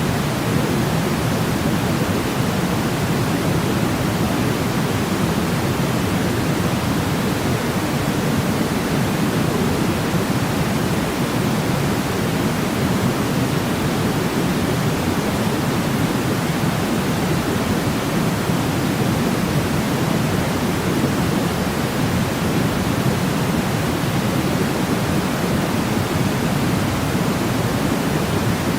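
Steady white noise for sleep: an even, unbroken hiss that is fuller in the low end, like pink noise, and does not change.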